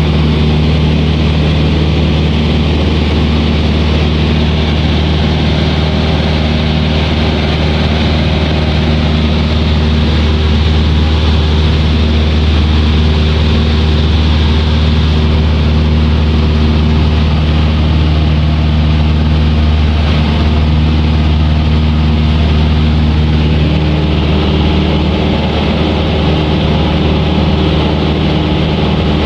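Aircraft engine droning steadily, heard inside the cabin of an old aeroplane in flight, with a slight shift in tone about 24 seconds in.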